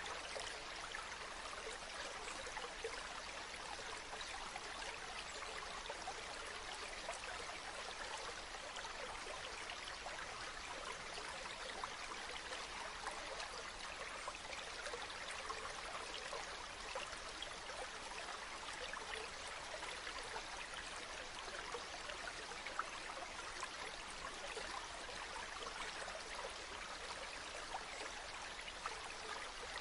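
Running water: a steady, even rush of a stream or small waterfall, with small splashes flickering through it.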